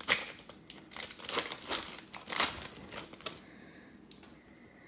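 Trading cards being handled and flicked through, with a quick run of sharp clicks and snaps that stops about three seconds in.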